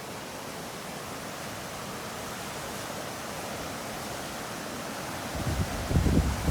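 Steady rush of a river in flood, swollen by typhoon rain. About five seconds in, wind starts buffeting the microphone in low gusts.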